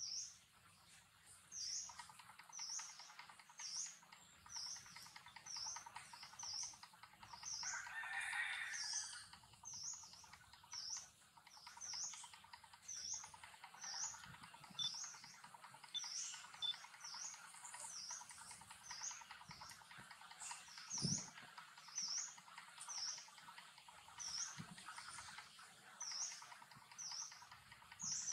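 A small bird repeating one short, high chirp over and over, about once a second. A brief rustle comes about eight seconds in, and a soft low thump about twenty-one seconds in.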